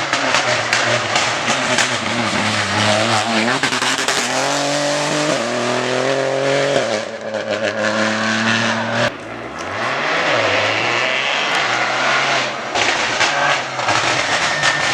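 Rally car engine at full throttle, rising in pitch through the gears with shifts about five and a half and seven seconds in, then a short lift-off about nine seconds in before it pulls again. Sharp crackles sound through the first few seconds.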